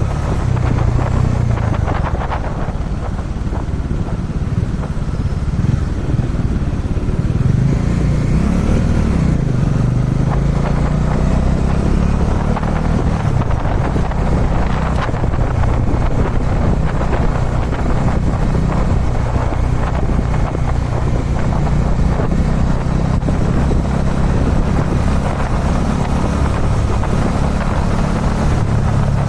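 Kawasaki Dominar 400's single-cylinder engine running while the bike is ridden at speed. The engine note rises and dips briefly about eight seconds in.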